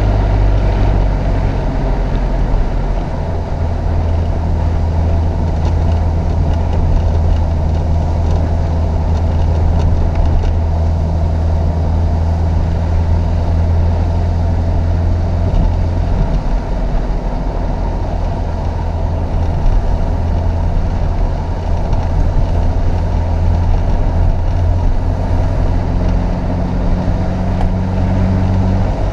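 Chevrolet Opala Comodoro's four-cylinder gasoline engine running hard under load on a climb, a steady low drone that changes pitch a few times as the engine speed shifts.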